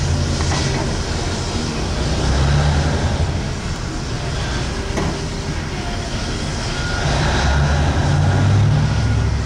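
Heavy mining equipment at work in an open pit, a shovel and haul trucks: a loud, deep, steady engine drone that swells about two seconds in and again from about seven to nine seconds in.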